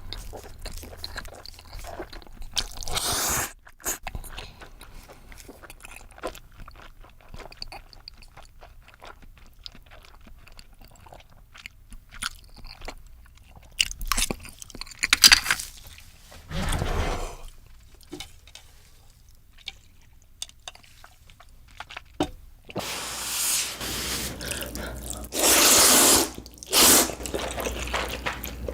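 Close-miked eating of ramen noodles: chewing with many small wet mouth clicks, and longer, louder slurps in the last few seconds.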